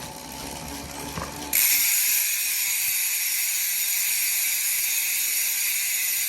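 E*Thirteen LG1R rear hub freehub buzzing as the wheel spins freely: the pawls ratcheting in a fast, high-pitched, continuous clicking. It starts suddenly about a second and a half in and holds steady.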